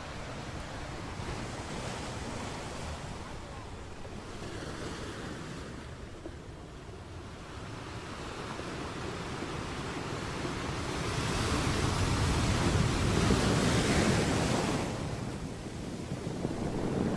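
Ocean surf: waves breaking and washing in, with a wave swelling to its loudest about two-thirds of the way through and another building near the end. Some wind noise is mixed in.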